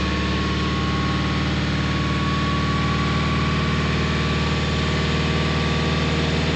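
Tata Safari 2.2-litre diesel engine running steadily at a raised, held speed with the accelerator pressed, just after it restarted once its locked injectors were freed. Holding the revs is meant to purge the air left in the injectors.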